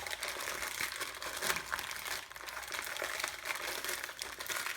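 Ritz crackers being crushed by hand inside a plastic bag: continuous irregular crinkling of the bag with crackling crunches.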